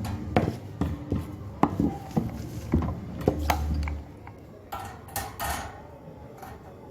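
An electric fan's grille being handled and fitted back over the blades: a string of sharp clicks and light clattering knocks, then a few short scrapes about five seconds in.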